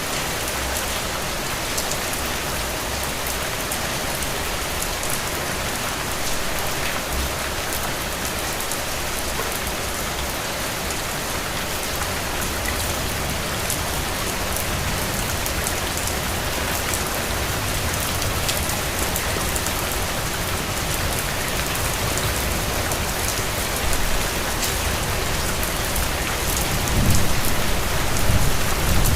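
Steady rain falling on a surface, an even hiss with scattered sharp drop ticks. A low rumble rises near the end.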